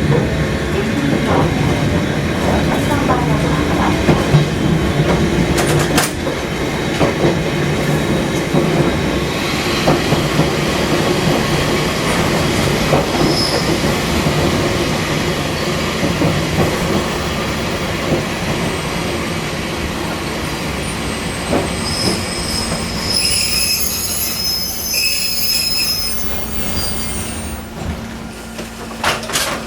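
Fukui Railway 200-series railcar running on the track, heard from on board: a steady rumble of wheels and running gear. About two-thirds of the way in the wheels squeal high on a curve, and near the end the running noise dies down.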